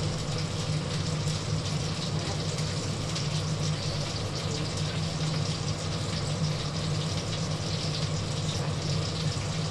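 Chicken frying in hot oil, a steady sizzling hiss with faint crackle, over the constant low hum of a kitchen range hood fan.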